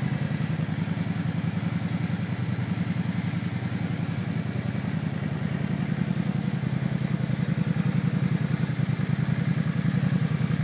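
Yamaha V Star 650 Classic's air-cooled V-twin engine idling steadily, with an even pulsing exhaust beat and no revving.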